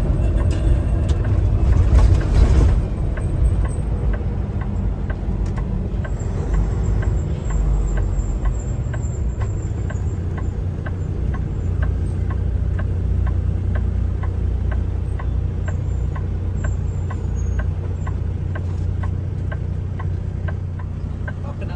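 Semi truck driving down the road, a steady low drone of engine and road noise, louder for the first couple of seconds, with faint regular ticking about twice a second.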